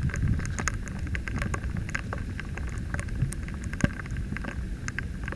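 Heavy rain falling on lake water and on the inflatable boat, with individual drops striking close to the microphone as many sharp, irregular ticks over a steady low rumble.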